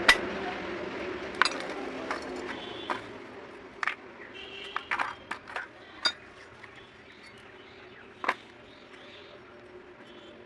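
Scattered sharp metallic clinks and taps of tools and small engine parts being handled and set down during motorcycle engine repair. A cluster of clinks comes around the middle, and a vehicle's running noise fades out over the first few seconds.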